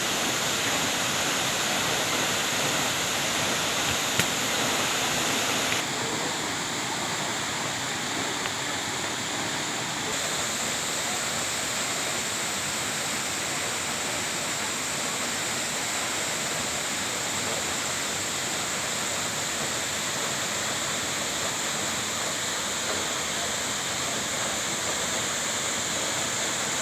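Waterfall with a steady rush of falling water, its tone shifting slightly about six seconds in.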